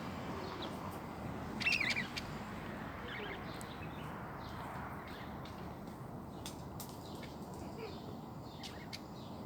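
Small birds chirping: a loud cluster of quick, zigzagging chirps about two seconds in, then scattered fainter chirps, over steady background noise.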